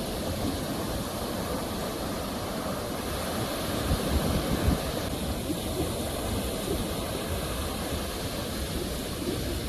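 Sea waves washing on a shore in a steady rush of surf, with a brief louder low rumble about four seconds in.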